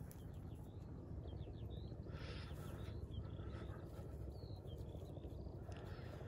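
Small birds chirping in short, scattered calls over a steady low rumble, with a couple of brief rustles.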